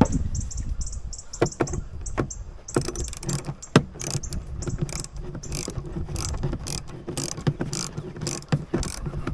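Ratchet wrench clicking in irregular runs as screws are driven and tightened.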